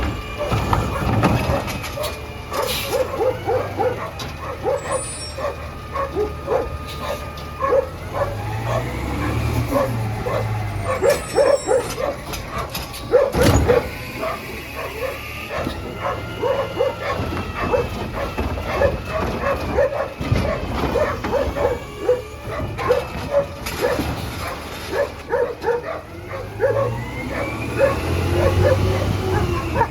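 Peterbilt 320 trash truck's engine running and revving up and down a few times, with a dog barking repeatedly over it.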